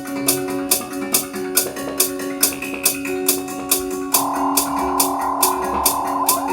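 Band music with no vocals. Crisp percussion strokes tick evenly about four or five times a second over sustained chords, and a brighter held note comes in about four seconds in.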